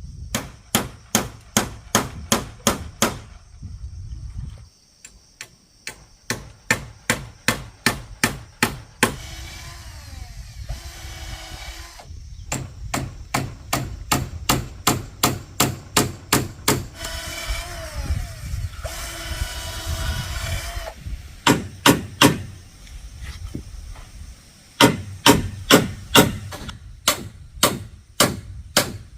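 Hammer driving nails into wood, quick even blows about three a second in runs of five to ten, with short pauses between runs. Two longer stretches of steady rasping noise come between the runs.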